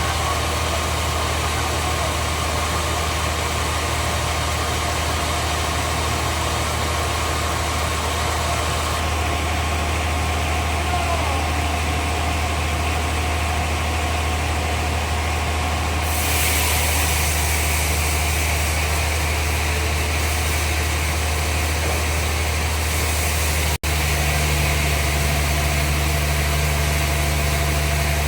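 Sawmill bandsaw machinery running with a steady, engine-like hum. A louder hiss comes in a little past halfway, and the sound briefly drops out near the end.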